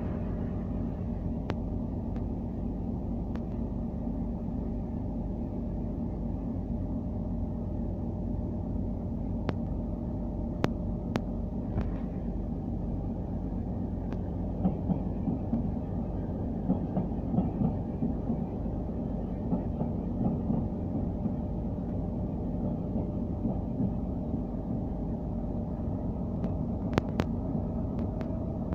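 Double-deck electric passenger train rolling along the platform: a steady low rumble with a few sharp clicks from the wheels on the track.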